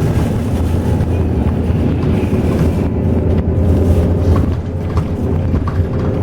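Intercity bus running on the road: a steady low engine drone with road noise and a few light rattles.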